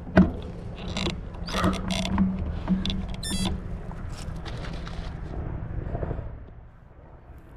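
Mechanical rattling and clicking over a steady low hum, with a short high squeak about three seconds in; it fades near the end.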